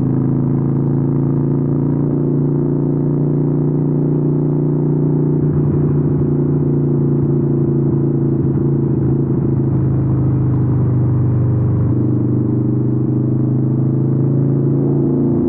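Harley-Davidson 883N's air-cooled V-twin running through Vance & Hines exhausts at a steady, nearly constant pitch, with a slight change in tone about twelve seconds in.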